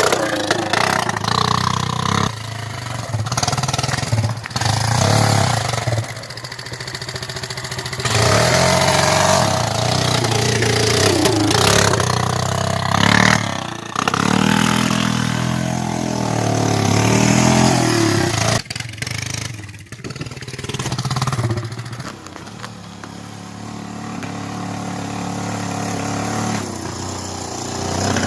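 Honda 300EX ATV's single-cylinder four-stroke engine running straight piped with no exhaust, revved up and down several times, then settling back to a lower, steadier run in the latter part.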